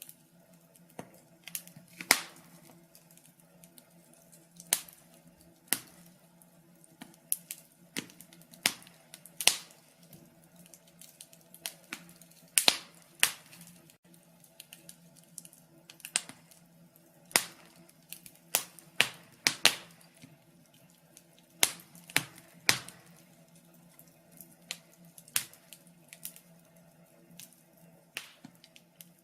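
Wood fire in a fireplace crackling, with irregular sharp pops and snaps every second or so, some of them loud, over a faint steady background.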